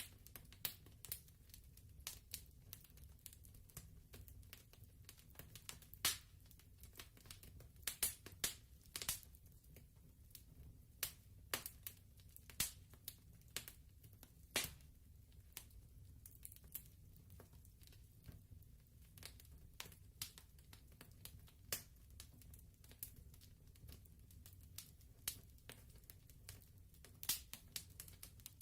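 Wood fire crackling in a fireplace: irregular sharp pops and snaps, some louder than others, over a low steady rumble.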